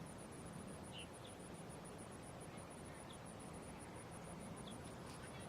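Insect chirping in a rapid, even, high-pitched pulse, with a few faint short chirps now and then.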